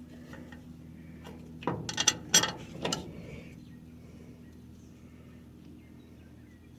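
A quick handful of sharp metallic clinks and knocks, about two seconds in, as a bearing and its bolts are fitted loosely onto a shaft on the mower-conditioner's crimper drive, over a faint steady hum.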